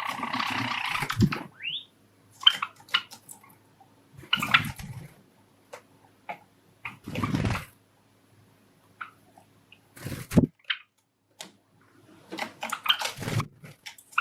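Pet Java sparrows giving a few short, rising chirps amid about five brief noisy bursts of scuffling and fluttering, some with a soft thud.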